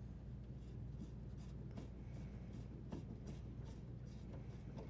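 Channel-lock pliers gripping and turning a water supply line elbow fitting off a dishwasher inlet valve: faint scraping with scattered small clicks, over a low steady hum.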